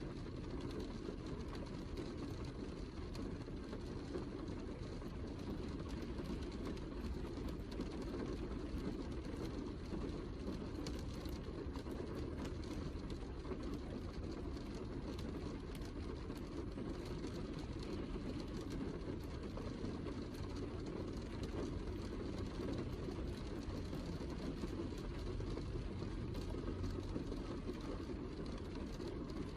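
Heavy rain falling steadily, a dense even rush of noise that sits mostly in the low range, with faint scattered drop ticks above it.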